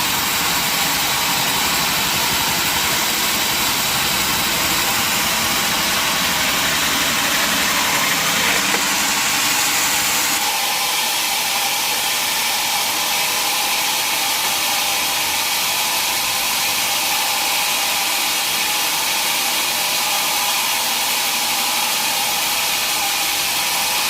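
Sawmill machinery running with a steady, loud mechanical noise; about ten seconds in the deeper part of the sound drops away while the higher noise carries on.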